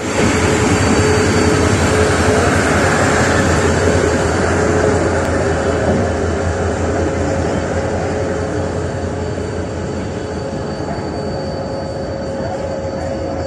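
Passenger train rolling past on the adjacent track: a steady rumble of wheels on the rails with a faint steady whine over it. It eases off a little about halfway through.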